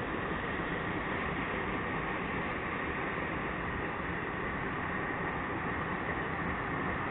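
Freight train rolling slowly past: a steady rumble and rail noise from the passing cars, with a few faint clicks.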